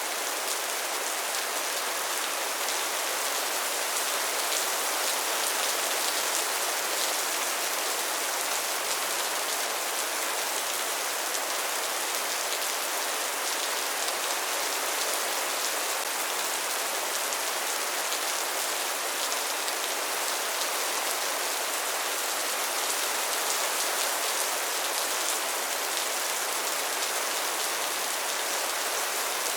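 Steady rainfall: an even hiss of rain with faint ticks of single drops, unchanging throughout.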